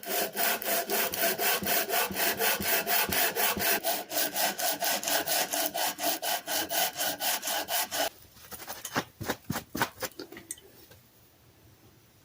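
Cast iron hand plane frog being scrubbed back and forth on sandpaper to flatten its mating surfaces, a fast, even rasping of about five strokes a second. The strokes stop about eight seconds in, and a few lighter scrapes follow.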